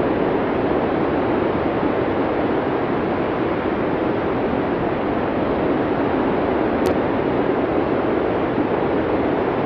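Blizzard wind as a steady, even rushing noise with no distinct gusts. A faint high tick about seven seconds in.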